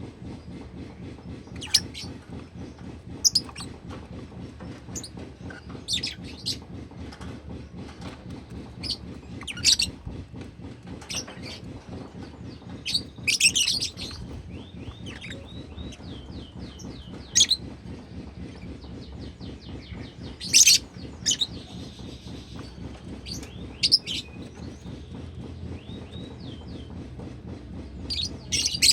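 Pet lovebird giving short, sharp chirps every second or two, over a steady low hum.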